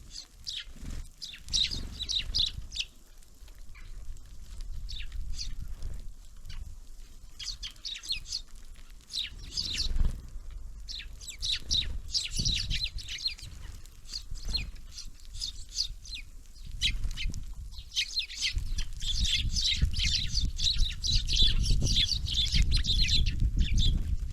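Small songbirds at a winter bird feeder chirping in quick, busy bursts that grow thicker near the end, over a low rumble.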